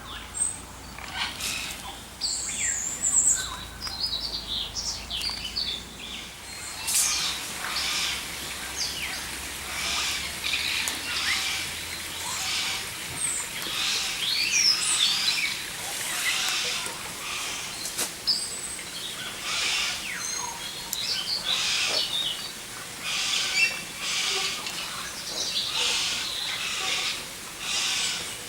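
Aviary birds chirping and whistling: many short, high calls, one after another, overlapping throughout.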